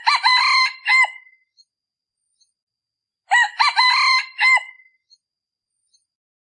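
Male red junglefowl decoy cock crowing twice, about three seconds apart. Each crow is short and clipped, the kind of call used to lure wild junglefowl cocks.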